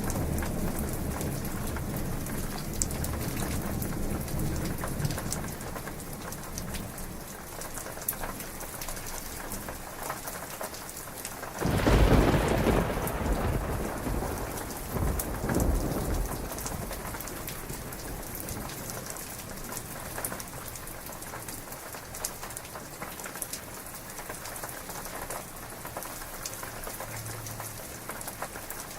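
Heavy rain falling steadily, with thunder: a low rumble in the first few seconds, then a sudden loud thunderclap about twelve seconds in that rumbles on, swells again a few seconds later and dies away.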